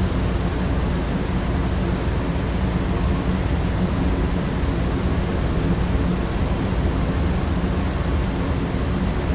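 Small electric motors and wheels of HO-scale model vehicles running steadily on track: a continuous whir and rumble with a low steady hum.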